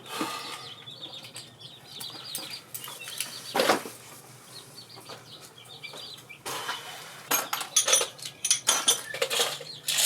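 Metal hand tools clinking and clanking against each other and the engine as stubborn bolts are worked. There is a louder scrape about a third of the way in and a quick run of sharp clinks over the last few seconds.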